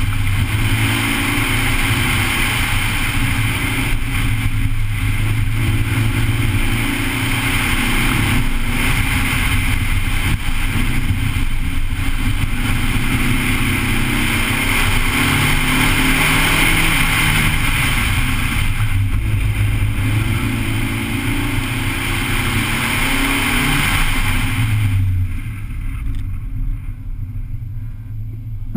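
Honda Civic EG8's single-cam, naturally aspirated D15 four-cylinder engine, revving up and down hard through an autocross course, under a steady rush of wind and road hiss. About 25 s in, the car lifts off and slows, and the engine and hiss drop to a quieter run.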